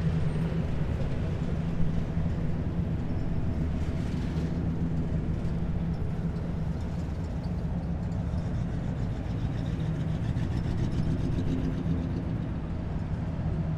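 Heavy military vehicles' diesel engines running in a column, a steady low drone that holds level throughout.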